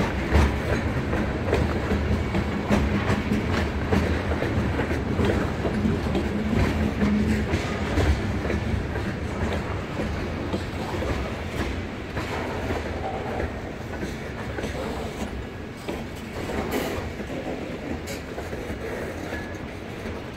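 Freight cars rolling past, their wheels clicking and clattering over the rail joints. The sound gradually fades as the last covered hoppers go by.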